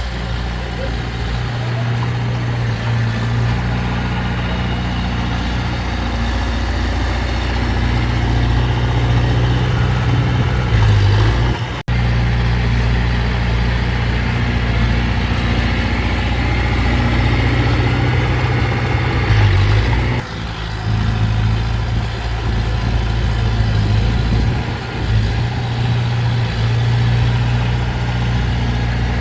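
Heavy diesel engine of earth-moving machinery running steadily, with a momentary cut in the sound a little before halfway.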